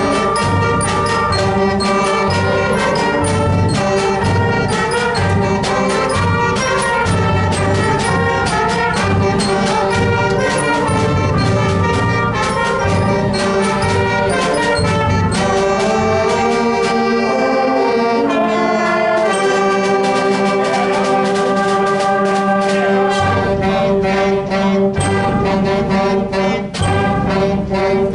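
School concert band playing, with brass to the fore over regular drum strokes. The low instruments drop out for several seconds in the middle, then come back in.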